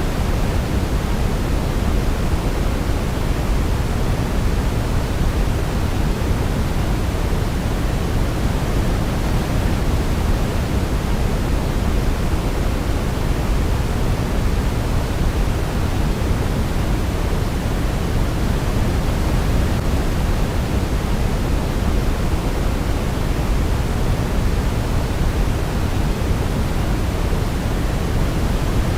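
Steady electronic sleep noise, a constant even rush strongest in the low end and fading toward the highs, like pink noise. No melody is heard.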